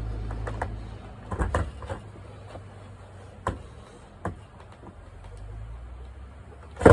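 A low rumble fades out in the first second, then a skateboard deck and wheels knock sharply against the ground a few times, a pair about a second and a half in and single knocks later, with a loud flurry of clacks right at the end.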